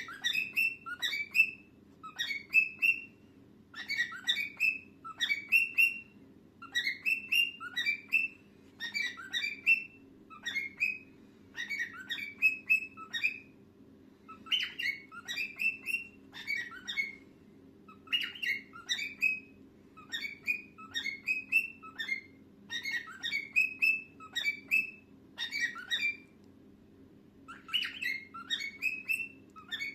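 Cockatiel chirping and whistling in short bursts of quick notes, a burst every second or two, with a steady low hum underneath.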